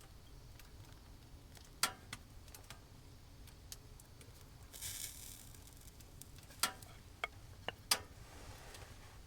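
A handful of sharp clicks and snaps at irregular intervals, clustered early and in the second half, with a short hiss about five seconds in.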